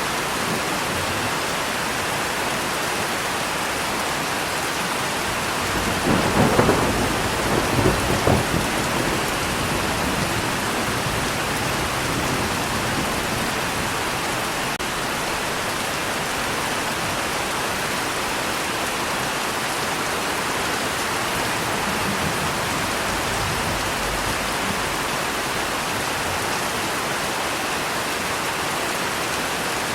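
Steady rain falling, with a roll of thunder rumbling for a few seconds about six seconds in.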